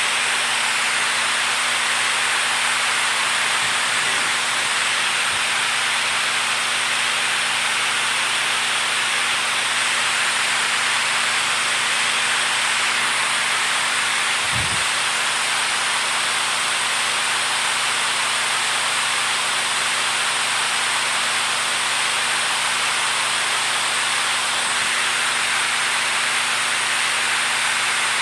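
Water rushing steadily, a dense, even hiss with no pauses. A faint low thump about halfway through.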